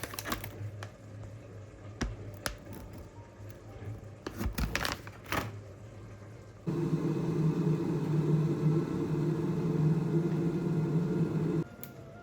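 A few light clicks and knocks of handling, then a steady mechanical hum, like a small household appliance running, that starts abruptly about seven seconds in and cuts off about five seconds later.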